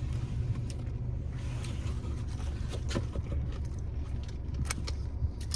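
Steady low rumble of a car's interior with the engine running, with a few faint clicks and taps scattered through it.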